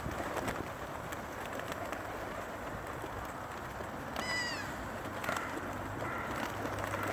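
An animal's single short, high call, falling in pitch, about four seconds in, over a steady background hiss.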